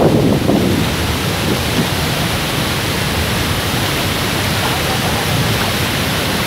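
Waterfall: a loud, steady rush of falling water, heavier in the first second and then even.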